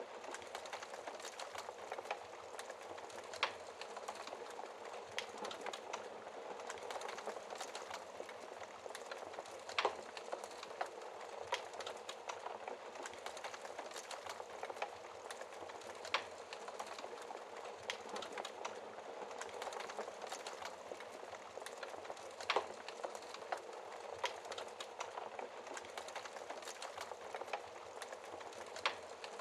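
Wood fire crackling in a fireplace: a steady soft hiss with irregular sharp snaps and pops, a few of them louder than the rest.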